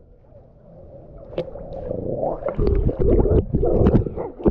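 Water sloshing and gurgling against a camera set at the waterline, muffled and low, with knocks from the water and the camera moving. It is faint at first and grows loud about two seconds in.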